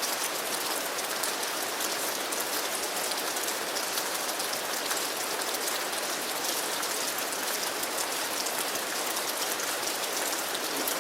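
Steady rain falling, a dense, even patter of many drops that holds level throughout.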